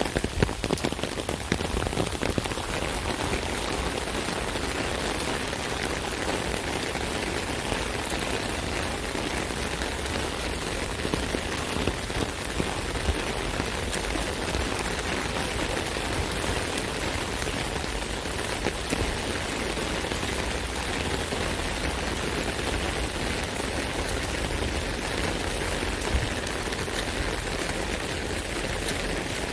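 Steady rain drumming on an umbrella canopy: a dense patter of drops, with a few sharper drop hits in the first couple of seconds.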